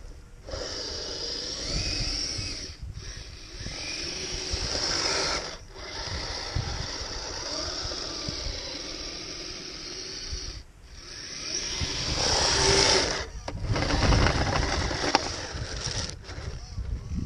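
Kyosho Blizzard RC snowcat's electric drive motor whining and its metal tracks clattering as it drives through light snow, the whine rising and falling with the throttle. The sound breaks off briefly several times, with wind rumbling on the microphone.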